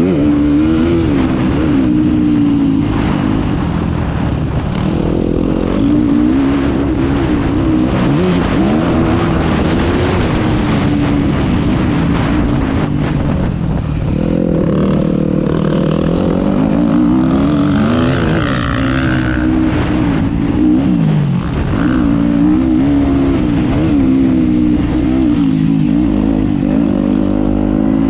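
Motocross bike engine heard from the rider's helmet camera, revving hard, its pitch rising and falling over and over as the throttle opens and shuts around the track.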